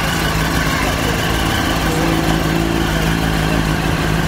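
Yamaha sport motorcycle engine idling steadily, with no revving.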